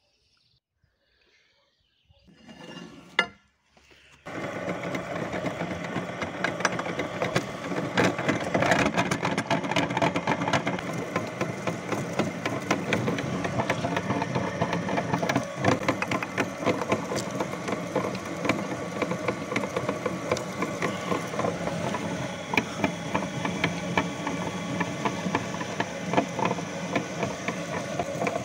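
Meat grinder starting up about four seconds in and running steadily, its motor humming under dense crackling and clicking as Snickers bars are crushed through it. A brief sound comes just before it starts.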